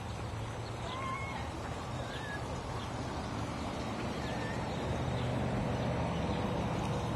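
A few short bird chirps, four or five in all, over a steady low rumble.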